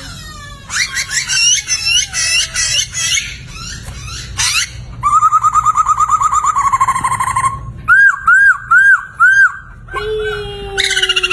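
Poksay, a laughingthrush, singing a loud, varied whistled song: slurred and gliding notes, then a fast trill, four arching whistles in a row, and a long falling whistle near the end.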